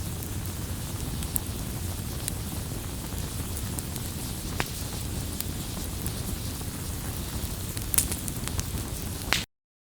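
Campfire burning, with a steady low rumble of flames and scattered sharp crackles and pops of burning wood, one of the loudest about eight seconds in. The sound cuts off abruptly near the end.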